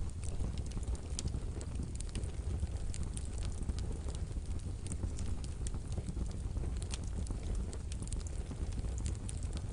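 Wood fire burning in a fireplace stove, crackling softly with irregular sharp pops over a steady low rumble of the flames.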